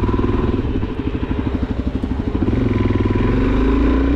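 Suzuki DR-Z400SM's single-cylinder four-stroke engine running through its stock exhaust: a pulsing chug at low revs, its pitch rising near the end as the bike picks up speed. The stock exhaust is so quiet the rider wants an aftermarket one.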